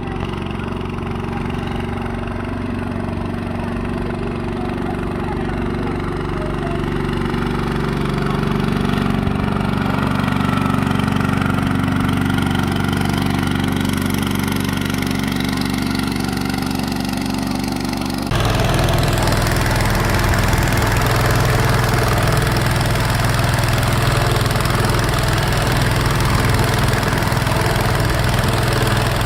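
An engine running steadily at idle-like speed. About 18 seconds in, the sound turns suddenly louder and rougher, with more hiss.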